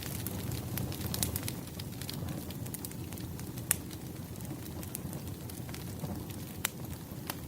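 Firewood burning in an open fire, with a steady low rush of flames and scattered sharp crackles. Two louder pops stand out, a few seconds apart.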